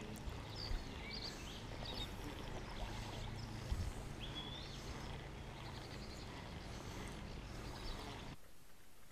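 Small birds chirping in short, scattered calls over a steady low outdoor rumble, with a couple of light knocks. The sound drops off abruptly near the end.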